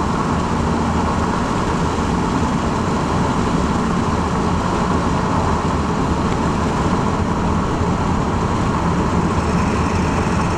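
Ford F-350's 7.3-litre Power Stroke turbo-diesel V8 running steadily while the truck drives, with road noise, heard from inside the cab.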